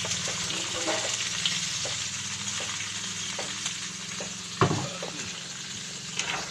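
Marinated horse meat sizzling and frying in hot oil in a pan over a wood fire, just added and being stirred. A sharp knock about four and a half seconds in, and a smaller one near the end.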